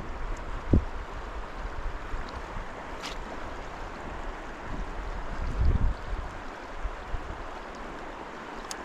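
Steady rush of a flowing trout stream, with a few brief low bumps of wind or handling on the microphone, one near the start and a cluster about two-thirds of the way through.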